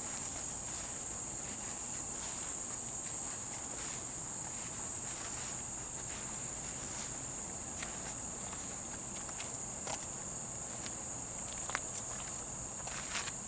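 A steady, high-pitched insect chorus of crickets or similar, with a few faint footsteps and clicks now and then, especially near the end.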